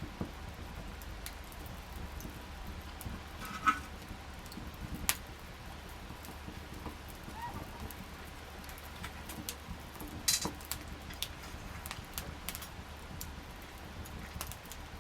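Wood campfire crackling, with sharp pops about four seconds in, five seconds in and ten seconds in over a low steady rumble.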